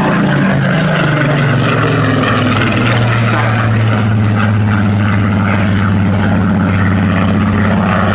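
Piston engine of a Second World War propeller fighter flying past, a loud, steady drone. Its pitch falls over the first few seconds as the aircraft goes by, then holds steady.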